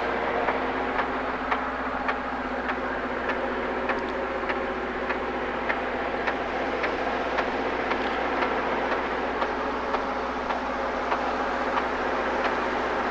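Train rolling steadily past, a continuous rumble of wheels on rail with a regular click of wheels over the rails about every half second or so.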